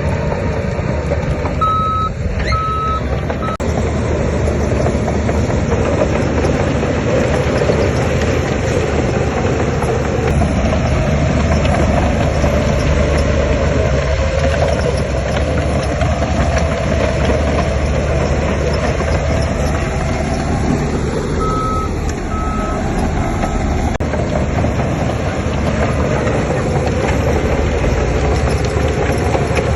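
Diesel engines of heavy earthmoving machinery running steadily under load. A reversing alarm gives three short beeps about two seconds in and three more a little after twenty seconds.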